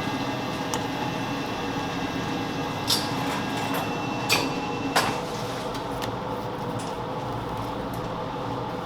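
Steady background hum with a thin high tone in the first half, broken by a few sharp clinks, the loudest about five seconds in.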